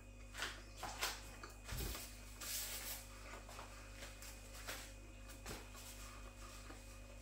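A person chewing a mouthful of burger, with faint, irregular wet mouth noises and soft crunches, and a low thump a little under two seconds in.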